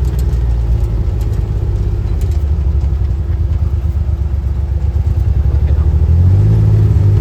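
A vehicle engine running steadily, speeding up and growing louder about six seconds in.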